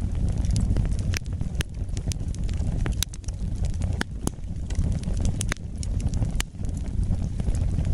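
Wood fire burning in a fireplace: a steady low rumble of flames with sharp, irregular crackles and pops of burning wood, several a second.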